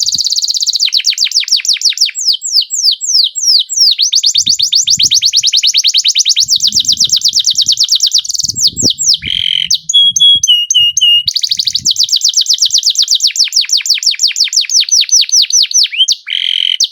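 Domestic canary singing a long rolling song: fast trills of rapidly repeated high notes, broken about halfway through by a few short, clear whistled notes before the trilling resumes.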